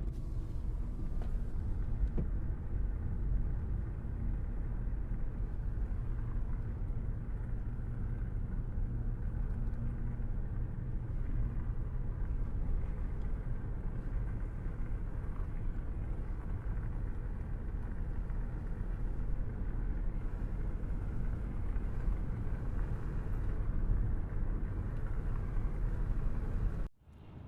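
Steady low rumble of a car driving on the road, engine and tyre noise together. It cuts off suddenly near the end.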